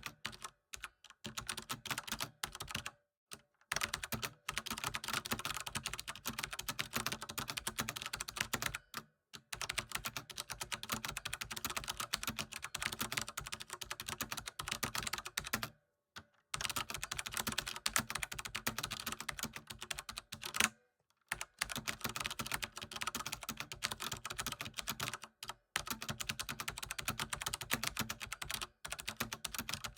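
Fast, continuous typing on a computer keyboard: a dense stream of key clicks, broken by several brief pauses of under a second.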